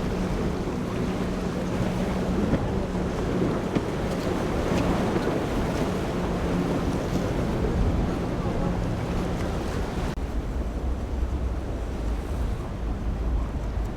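Waves and surf breaking in an inlet, with wind buffeting the microphone and a boat engine droning steadily underneath. About ten seconds in, the engine drone fades, the surf hiss drops, and a low wind rumble takes over.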